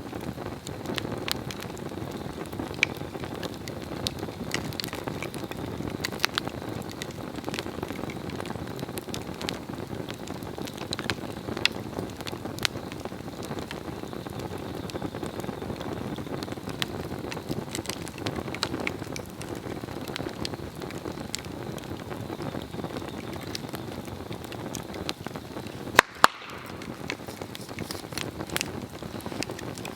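Swedish torch log burning: a steady rush of flame with scattered small crackles, and two sharp, loud pops close together near the end.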